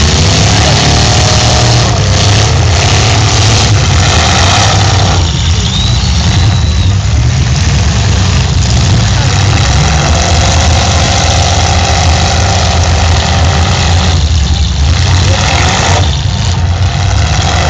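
Demolition derby cars' engines running together, loud and steady, with crowd voices mixed in.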